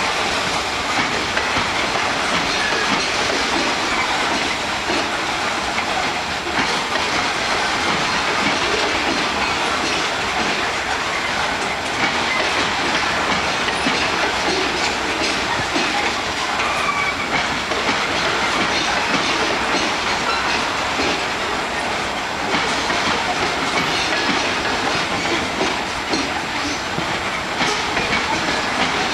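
Long freight train of open-top gondola cars rolling steadily past, its steel wheels clattering on the rails over a constant rumble.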